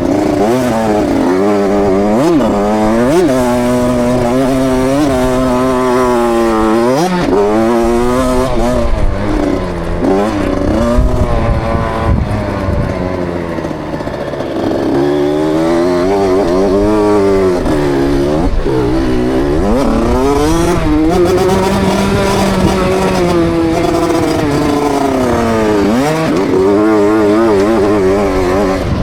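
KTM 65 SX's 65cc two-stroke single-cylinder engine under hard riding, its pitch climbing again and again as the throttle is held open, then dropping sharply when it is shut off, heard from the rider's helmet.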